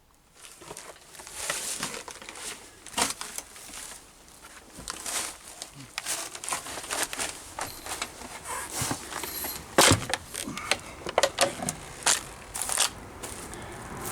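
Footsteps crunching irregularly through dry brush and debris, with sharp crackles and snaps; the loudest snap comes a little under ten seconds in.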